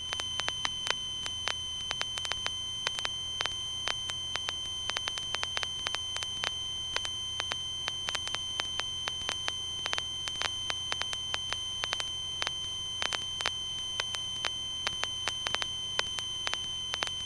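Cessna 150 cockpit audio during the full-power climb-out after a touch-and-go: a steady high-pitched tone with frequent irregular clicks over a faint low engine drone.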